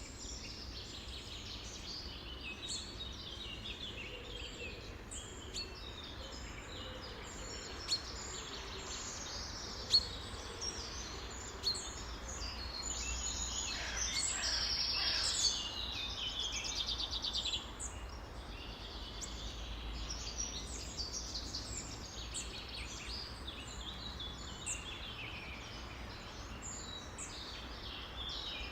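A dense chorus of many songbirds calling and chirping over one another, with a few sharp chirps standing out. A louder, rapid trill comes in about halfway through and lasts a few seconds.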